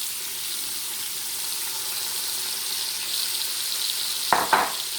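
Freshly added diced onion and celery sizzling steadily in bacon fat and olive oil in an Instant Pot on sauté. Near the end there are two quick sharp knocks.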